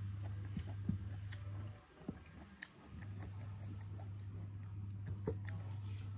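Close-up chewing of boiled yam with the mouth closed, with a few sharp clicks as the utensil picks food from the plate. A steady low hum runs underneath and drops out for about a second near the middle.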